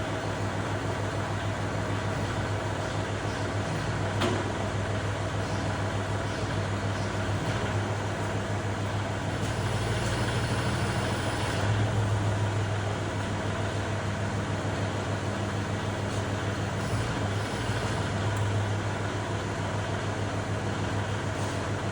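Tractor engine running steadily at a low, even pitch, swelling slightly about ten seconds in, with a single click about four seconds in.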